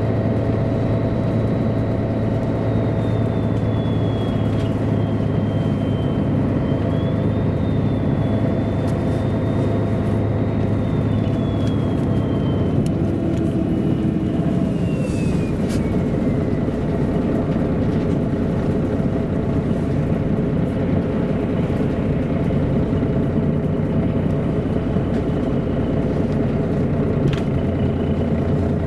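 MAN A23 articulated city bus under way, its diesel engine and drivetrain running steadily. A faint high whine wavers and then falls in pitch about halfway through.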